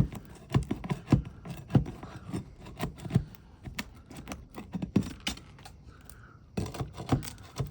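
Irregular knocks, clicks and scrapes of roofing tools, a flat bar and hatchet, working on asphalt shingles and nails.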